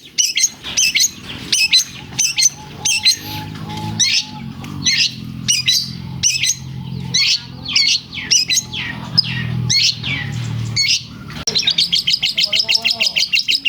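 Long-tailed shrike (cendet) singing a rapid string of sharp, varied chirps that include mimicked lovebird calls. Near the end it breaks into a fast, even trill.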